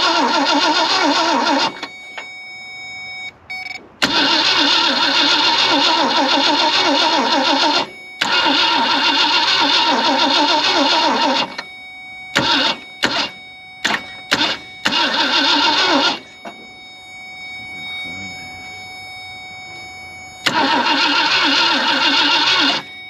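Starter cranking a 1965 Ford Thunderbird's V8 in several bursts with a fast, even chugging rhythm. There are three long cranks, a string of short bumps of the starter around the middle, and one more crank near the end, and the engine never catches. The points are not giving spark; the owner suspects they are not gapped properly.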